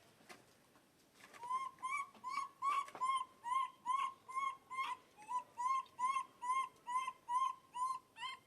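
Baby monkey crying: a long string of short, arched, whimpering calls, about three a second, beginning a little over a second in.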